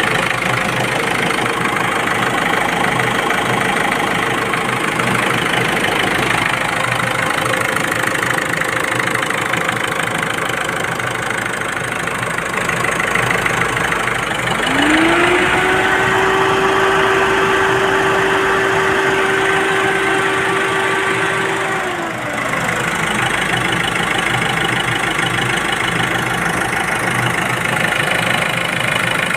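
Ford Freestyle diesel engine idling with a steady clatter. About halfway through, the pitch rises, holds for about seven seconds and then falls back to idle, as if the engine is revved and held before being let off.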